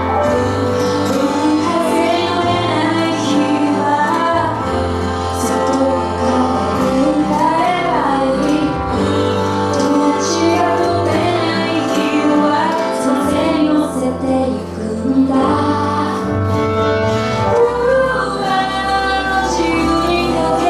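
A woman singing a song live over instrumental accompaniment with a steady bass line.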